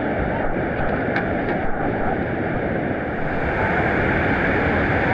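Whitewater rapids rushing steadily, with a few faint clicks about a second in. The rushing grows a little brighter about three seconds in.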